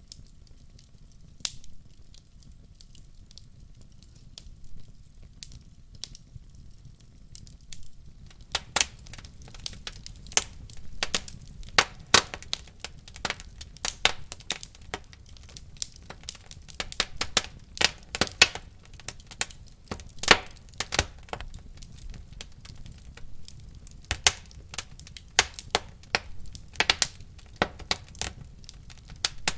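Wood fire crackling in a fireplace: only a few scattered pops at first, then from about a third of the way in a dense, irregular run of sharp snaps and crackles over a low steady rumble.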